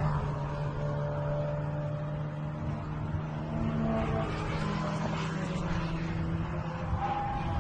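A car driving: a steady engine hum over constant tyre and road noise.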